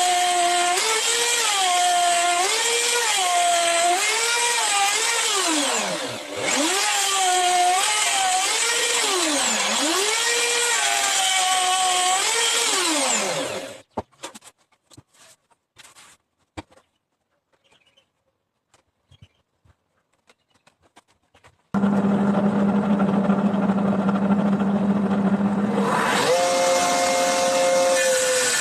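Electric woodworking power tool running with its motor pitch wavering and dipping sharply several times, as if slowing under load, then switched off about halfway through. After a few seconds of quiet with scattered knocks, a motor starts abruptly, runs steadily, and steps up to a higher pitch near the end.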